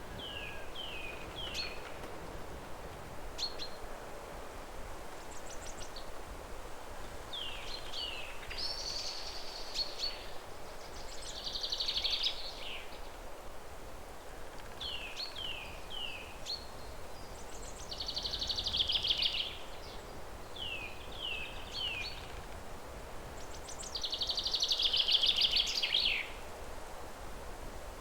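A songbird singing repeated phrases: a few short down-slurred whistled notes, then a buzzy trill, several times, the loudest near the end. A steady outdoor background hiss runs underneath.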